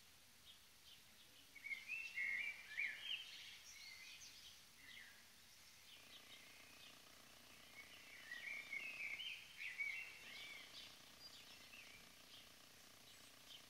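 Small birds chirping and twittering in the background in two bursts, one about two seconds in and another around eight to ten seconds in, over faint ambient noise.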